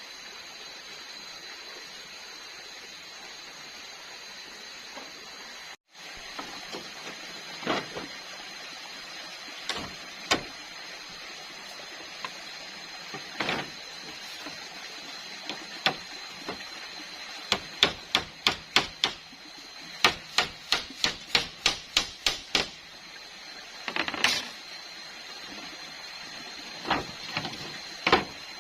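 Sharp knocks, like wood being struck: a few scattered at first, then a quick run of about three a second lasting several seconds, then a few more. A steady hiss with a thin high-pitched tone lies underneath.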